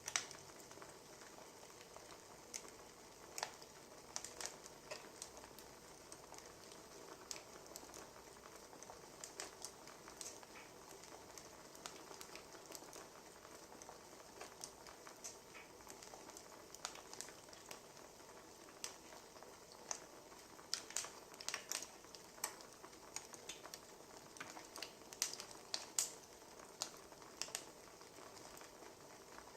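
Wood fire crackling: a soft steady hiss with irregular sharp pops and snaps, busiest toward the end.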